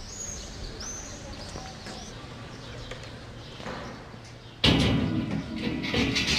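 Outdoor ambience with a few short, high bird chirps over a low steady background. About four and a half seconds in, a much louder rush of noise starts suddenly.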